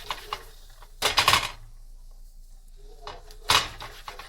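HexClad hybrid griddle pan being handled, with two short clattering scrapes, about a second in and again near the end, and a few light clicks at the start.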